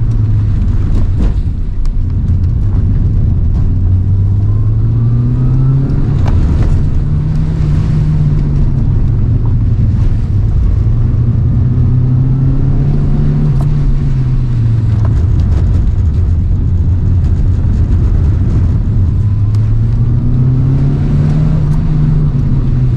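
Toyota AE111 Trueno engine heard from inside the cabin under hard driving, its revs climbing and dropping several times as the car accelerates out of corners and slows into them.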